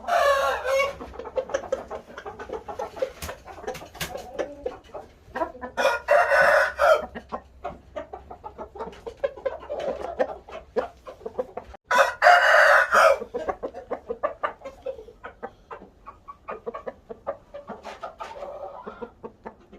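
Roosters crowing three times, each crow lasting about a second, with chickens clucking and making short calls in between.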